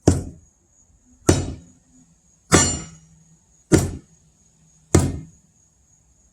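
Sledgehammer striking a steel wedge driven into a log, five hard blows about a second and a quarter apart, each with a short metallic ring.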